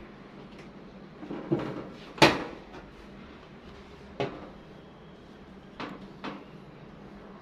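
A handful of hard knocks and clunks, like parts being handled and set down, the loudest about two seconds in.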